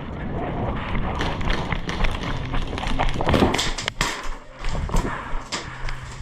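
Footsteps of a player running, with gear jostling and a steady stream of irregular clicks and knocks.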